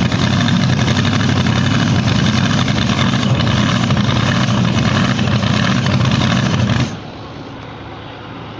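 Pulling truck's engine under full throttle, very loud and steady through the pull, dropping abruptly to a much lower level about seven seconds in as the throttle comes off.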